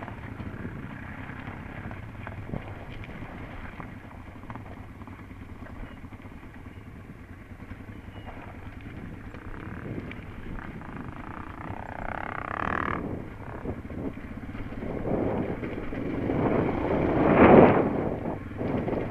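Enduro motorcycle engine running while riding a rocky trail, heard from a camera on the bike. It swells louder twice in the second half, the loudest near the end.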